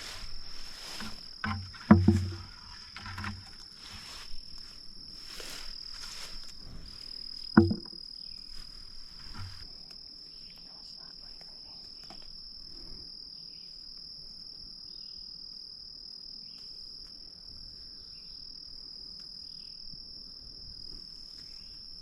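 A steady, high-pitched drone of insects in the brush. Over it during the first half there is rustling and handling as blackberries are picked from the brambles, with two sharp knocks, one about two seconds in and one at about eight seconds. After that only the insects go on.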